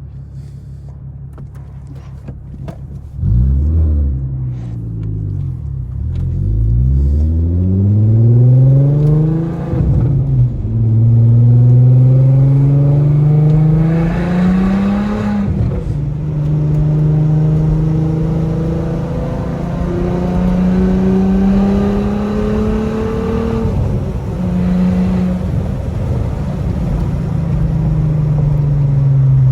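Mk4 Jetta GLI's 24-valve VR6 through a rear-muffler-deleted exhaust (stock resonator and cat): a low idle, then about three seconds in the exhaust note jumps louder and the revs swing up and down. The engine then pulls up through the revs in long rising sweeps, with sudden drops near ten and fifteen seconds that sound like gear changes, before settling into a steadier drone with smaller rises and falls.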